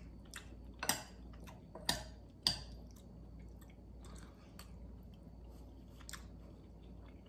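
A person chewing a mouthful of soft macaroni and cheese, with a few short sharp clicks of a metal spoon scooping against a glass bowl, the loudest between about one and two and a half seconds in.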